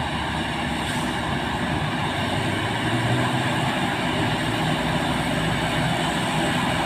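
Diesel engine of a heavily loaded container trailer truck pulling hard up a steep climb, a steady low drone that grows a little louder a few seconds in.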